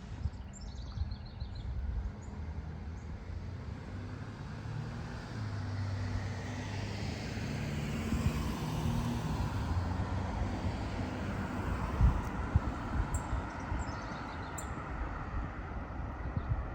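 A car passing by, its engine and tyre noise swelling over several seconds and then easing off. Birds chirp briefly near the start and again near the end.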